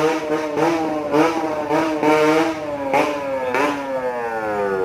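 Motor vehicle engine revving, its pitch wavering up and down, then sliding steadily down over the last second and a half.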